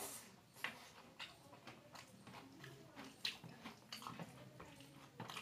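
Close-miked eating: wet chewing and lip-smacking of a rice-and-dal meal, with irregular sharp clicks and two louder smacks, about two-thirds of a second in and about three seconds in.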